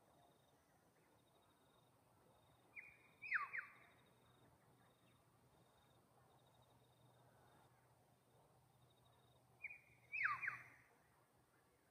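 A bird calling twice, about seven seconds apart: each call is a short high note followed by two quick whistles sweeping steeply downward.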